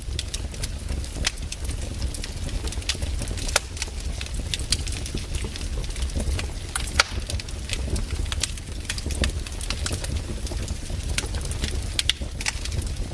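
Wood campfire crackling: irregular sharp pops and snaps over a low steady rumble, with one louder pop about seven seconds in.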